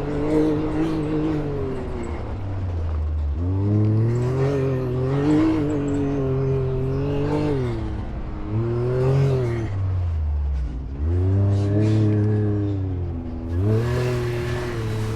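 Off-road vehicle engine revving up and dropping back repeatedly, every couple of seconds, as it crawls over rocks on a trail.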